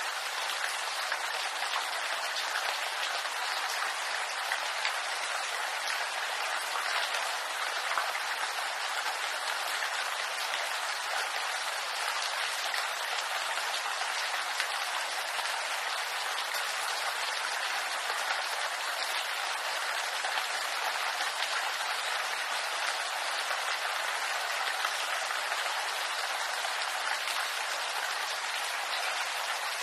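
Steady rain pattering on bamboo leaves, a dense, even hiss of countless small drops.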